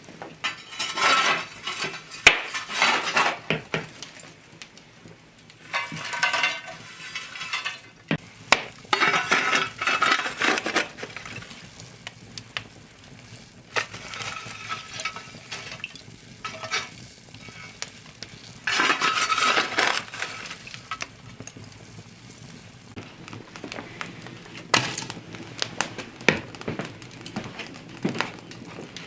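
A spoon stirring and scraping in a dish, in bursts of a second or two, with clinks of the utensil against the dish.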